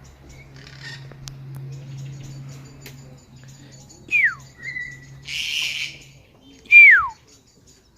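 New Zealand kākā calling: two loud whistles that slide down in pitch, about four and seven seconds in, with a short held whistle and a harsh grating call between them.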